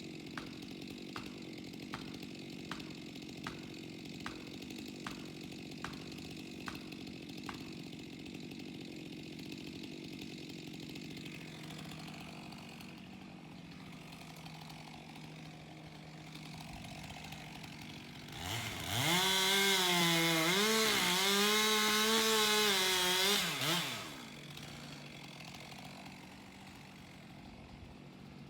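An engine runs steadily, with a faint regular tick about every three-quarters of a second for the first several seconds. About two-thirds of the way through, a Stihl chainsaw revs to full throttle for about five seconds, its pitch dipping and recovering, then drops back.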